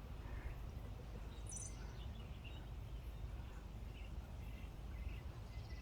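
Faint outdoor ambience: a steady low rumble of wind with distant birds chirping now and then, and one short high bird call about a second and a half in.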